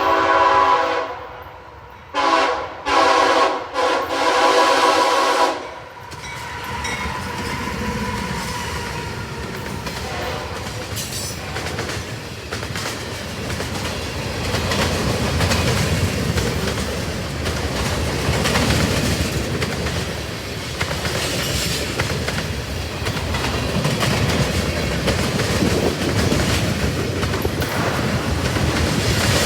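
CSX freight locomotive's multi-chime air horn sounding a string of blasts of different lengths over the first six seconds, the last one the longest. Then the train passing at speed, its wheels rumbling and clattering on the rails.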